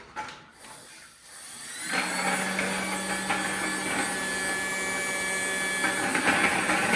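Theo Klein Bosch Unlimited toy vacuum cleaner switched on about two seconds in, its small battery-powered suction motor running with a steady hum and hiss.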